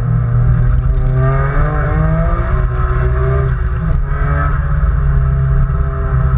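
Nissan R33 Skyline GT-R's twin-turbo straight-six heard from inside the cabin at speed over a heavy drone. The engine note climbs steadily for a couple of seconds under acceleration, then breaks about four seconds in and falls away.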